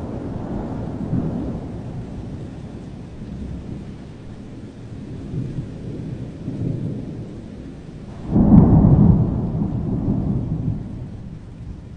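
Thunder rumbling low and rolling over steady rain. A sudden loud thunderclap breaks about eight seconds in and rolls away over the next few seconds.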